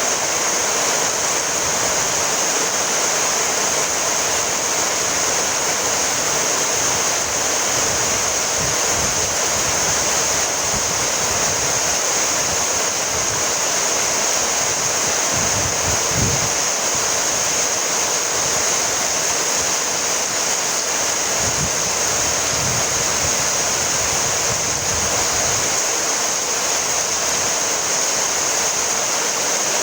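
Steady rainfall, an even unbroken hiss, with a couple of brief low rumbles around the middle.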